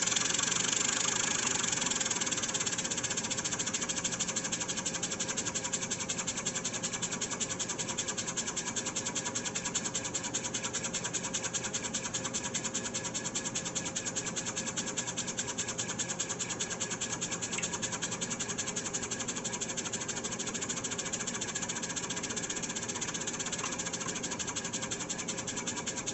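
Model live-steam engine running steadily with a rapid, even chuffing beat while it drives a small generator, slowly growing a little quieter.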